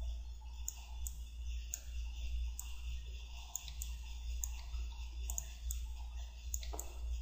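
Irregular clicks of a computer mouse and keyboard being operated, over a steady low electrical hum.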